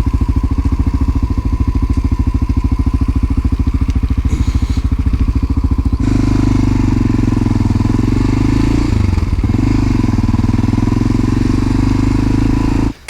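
1988 Honda NX650 Dominator's single-cylinder four-stroke engine idling with an even, rapid thump. About six seconds in it changes abruptly to steady running at higher revs, with a brief drop and recovery in revs a few seconds later.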